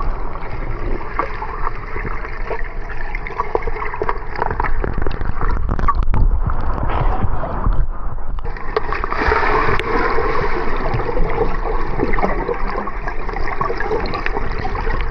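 Water splashing and gurgling in a waterfall pool: a steady rushing wash with many small splashes, growing fuller about eight seconds in.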